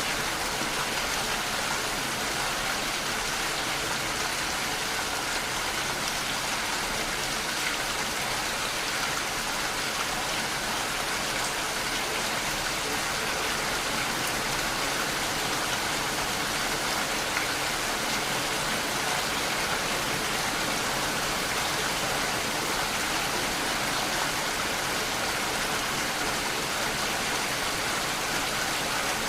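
Steady rain falling, a dense even hiss with fine patter of drops.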